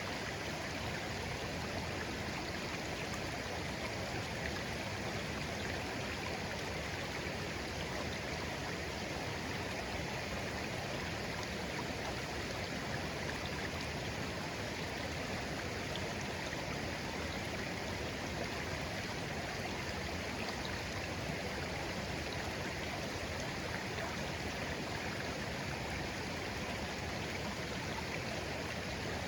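Clear shallow stream babbling steadily over stones, an even, unbroken rush of flowing water.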